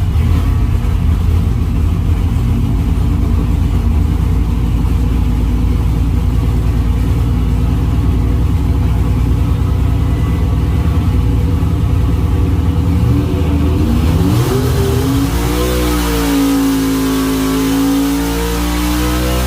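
632 cubic-inch big-block V8 running on an engine dyno. It holds a steady low rumble, then revs up about two-thirds of the way through and holds at a higher speed near the end.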